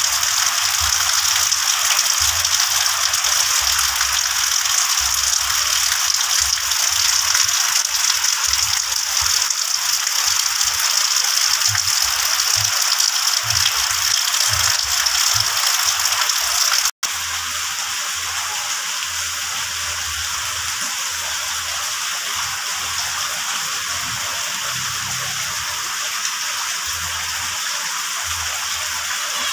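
Heavy rain falling in a steady dense hiss on leaves, ground and roof. About 17 seconds in it breaks off for an instant and carries on a little quieter.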